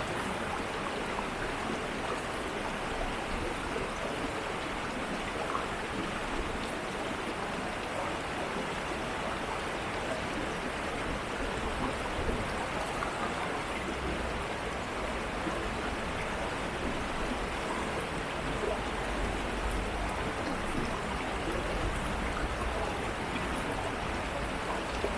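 Water of an urban stream flowing steadily, an even, unbroken rush of running water.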